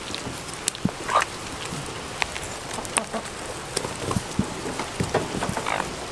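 Steady rain pattering on the ground, with scattered sharp taps and two short calls from foraging hens, about a second in and near the end.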